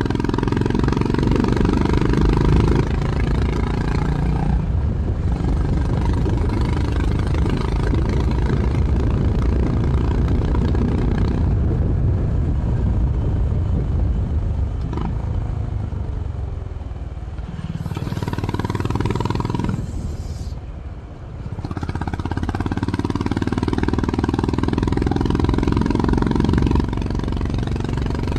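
Honda CB350 RS's air-cooled single-cylinder engine through its stock exhaust, riding under way and changing pitch as the gears are shifted. About halfway through it eases off and falls in pitch. It dips briefly a little past two-thirds of the way through, then pulls steadily again.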